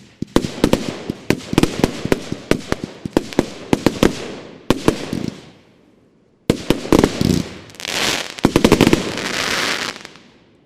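Broeckhoff Sylvester Mainframe compound firework cake (25 and 30 mm shells) firing: a rapid run of launch thumps and shell bursts, a brief lull about six seconds in, then a last volley of bursts with dense crackling that dies away near the end.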